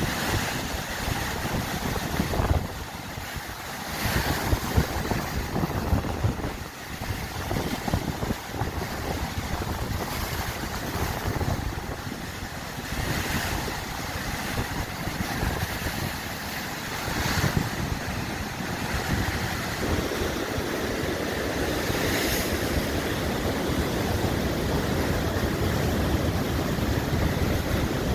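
Sea waves washing onto the shore, with gusty wind buffeting the microphone in uneven rumbling gusts.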